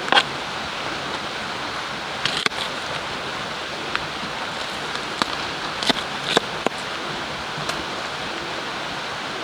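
Steady rushing of water, a river or rain, with scattered sharp clicks and taps every second or so.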